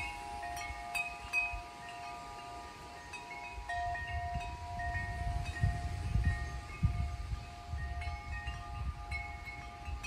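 Wind chimes ringing in the wind: several overlapping tones, struck again at irregular moments. From about four seconds in, wind gusts rumble on the microphone.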